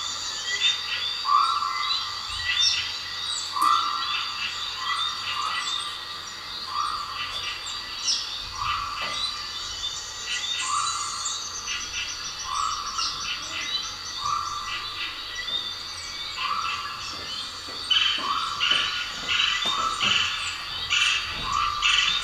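Frogs croaking in an even rhythm, about one croak every second and a half, with birds chirping over them.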